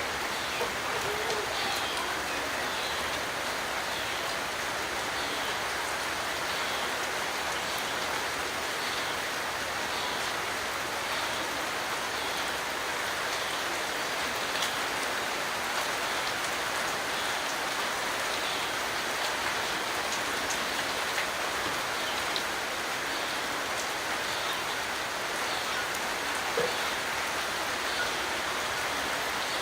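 Steady rain falling, an even hiss with scattered drop ticks, and a faint high note repeating about once a second.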